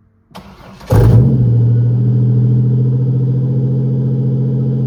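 The supercharged 3.8-litre V6 swapped into a 1986 Pontiac Fiero is cranked briefly, catches about a second in with a burst of revs, then settles into a steady idle. It is a cold start after a month in storage.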